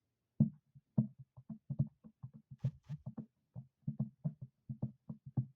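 Rapid series of short knocks in a small room, about five a second, slightly uneven in rhythm.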